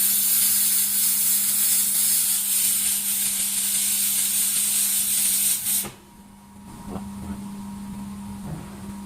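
2 kW handheld fiber laser welder welding stainless steel: a steady, loud hiss that cuts off suddenly about six seconds in. A low steady hum continues underneath.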